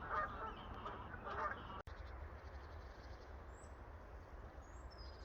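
Distant waterfowl calling faintly for about the first second and a half. The sound then cuts off abruptly and gives way to a steady low rumble of wind on the microphone, with two brief faint high bird chirps.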